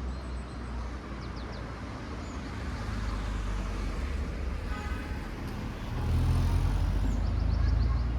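A motor vehicle passing on the street: a low engine rumble that grows louder, is loudest near the end, then starts to fade.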